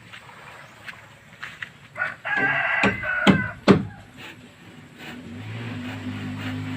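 A rooster crows once, about two seconds in, followed by three sharp knocks in quick succession. A low steady hum starts near the end.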